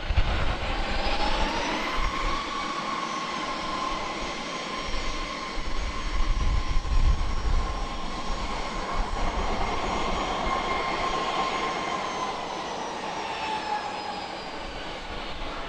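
Jet airliner engines whining over a steady rumble. The whine rises in pitch in the first couple of seconds, holds steady, and falls near the end.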